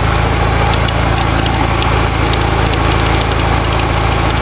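Homemade small sawmill built from lawnmower parts running steadily, its small engine driving the blade through wood.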